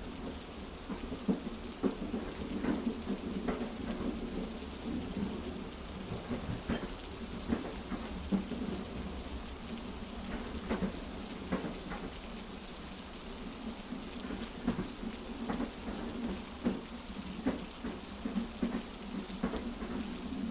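Heavy rain falling steadily over a constant low rumble, with many sharp ticks scattered irregularly through it: a looped rain and train-carriage ambience for sleep.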